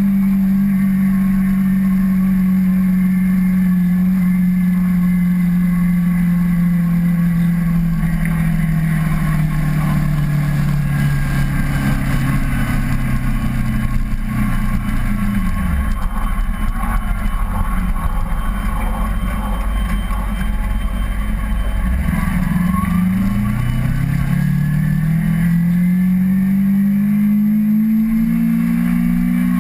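Kawasaki Ninja 250R's parallel-twin engine running on the road: its note sinks slowly as the bike eases off, drops to a low rumble for several seconds around the middle, then climbs steadily again as it accelerates.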